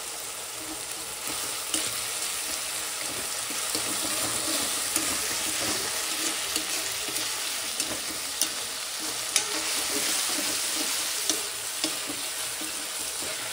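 Minced chicken paste for wachepa sizzling in oil in a steel kadai over a gas flame. A steel spatula stirring it scrapes and clicks against the pan now and then.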